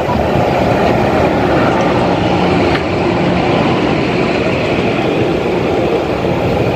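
Passenger train hauled by an electric locomotive passing close alongside on the next track, heard through an open carriage window: a loud, steady rumble and rattle of wheels on rail as the coaches rush by.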